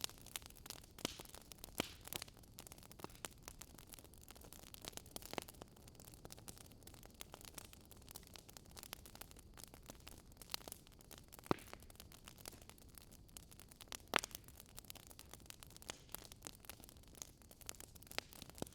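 Campfire crackling: irregular sharp pops and snaps over a soft steady hiss.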